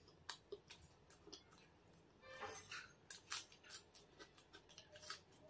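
Close-miked chewing of a mouthful of spicy egg curry: a string of short, sharp wet mouth clicks and smacks, irregular and of varied loudness.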